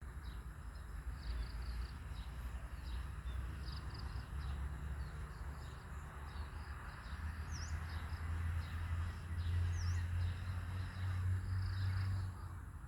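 Wind rumbling on the microphone, growing stronger in the second half, over small birds chirping repeatedly. Two short swooping calls come near the middle.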